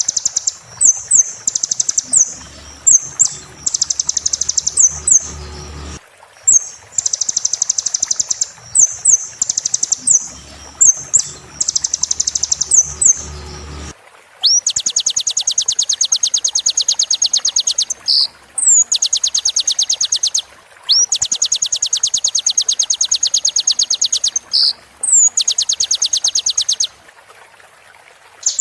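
Recorded song of a kolibri (sunbird): rapid, high trills broken by quick rising whistled notes, the trills running longer, several seconds each, from about halfway on.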